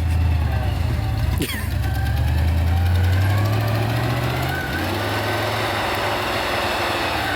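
Truck engine pulling hard in the snow, its deep drone swelling and then dropping sharply about four and a half seconds in. A rushing hiss follows, like tyres churning snow, with a sharp click just over a second in.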